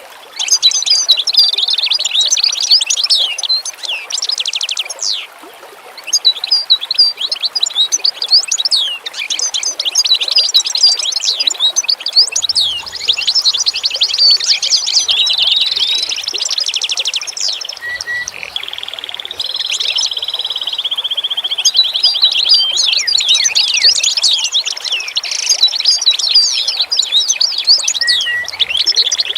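Songbirds chirping and singing in a dense chorus of rapid high trills and sweeping calls, with a brief pause about five seconds in.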